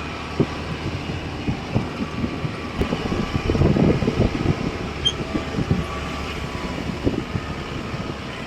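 Car driving on a road, a steady low rumble with frequent short low thumps, heaviest about halfway through.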